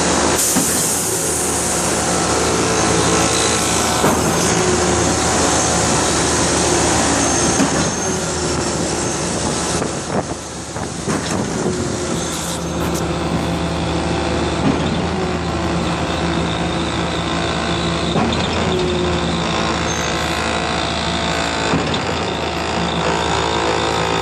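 Heavy diesel engine running steadily, with a constant hiss and a few sharp knocks.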